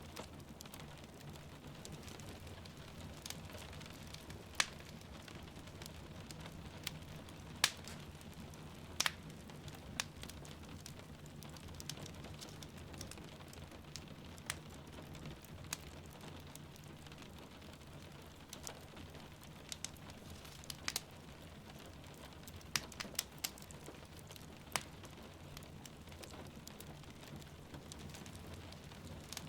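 Wood fire crackling with sharp, irregular pops a few seconds apart over a steady hiss of rain.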